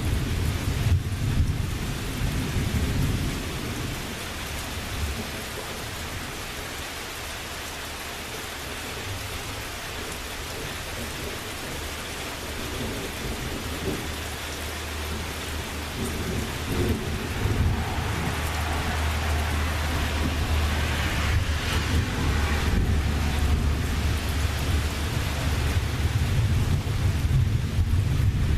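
Steady rain with rolling thunder. A low rumble dies away over the first few seconds, and another long rumble builds from just past halfway.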